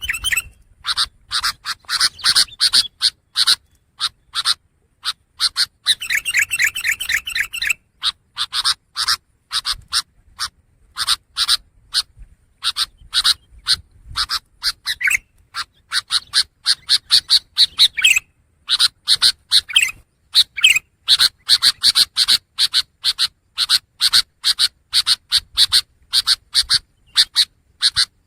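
Long-tailed shrike (pentet) giving harsh, rasping chatter: short scratchy notes repeated several times a second in bursts with brief pauses, and a fast rattling trill about six seconds in.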